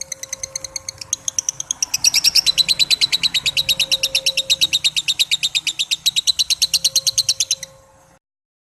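Lovebird giving a long 'ngekek' chatter: a fast run of shrill repeated notes, about eleven a second. It grows louder about two seconds in and cuts off near the end.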